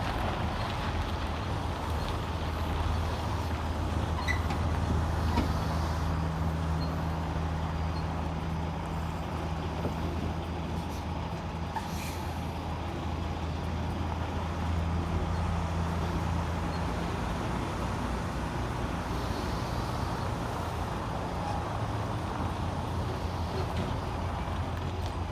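Semi-truck diesel engine idling steadily, a low hum, with one brief click about halfway through.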